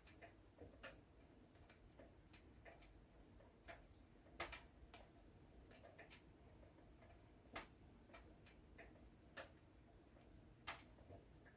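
Wood fire in a fireplace crackling: irregular sharp snaps and pops over a low steady rumble, with a few louder pops standing out, about four and a half, seven and a half and eleven seconds in.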